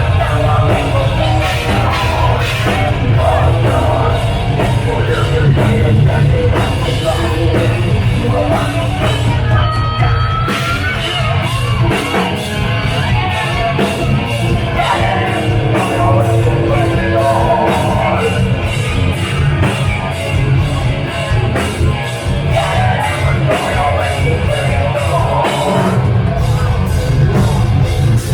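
Heavy metal band playing live at full volume: distorted guitars, bass and fast, pounding drums, with screamed vocals.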